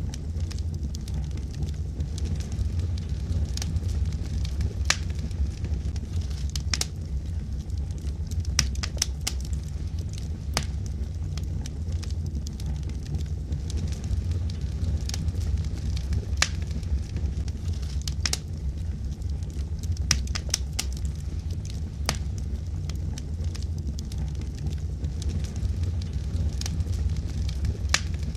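Wood fire burning in a fireplace: logs crackling and popping irregularly, with sharp snaps every second or so over a steady low rumble of the flames.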